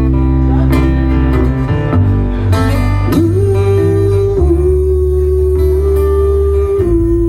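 Live acoustic duo music: guitar strumming, with a long held lead note above it that slides up about three seconds in.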